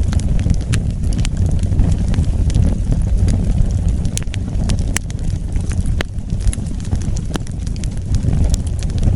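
Wood fire burning: a steady low roar of flames with frequent sharp crackles and pops scattered through it.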